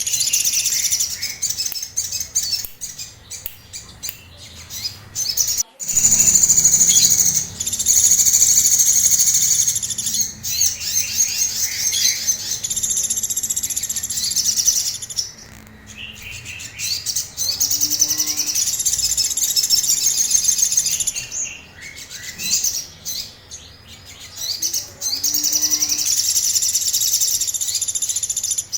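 A sogon songbird singing agitated, high-pitched song: long phrases of rapid trilling, each several seconds long, broken by short gaps and scattered single chirps.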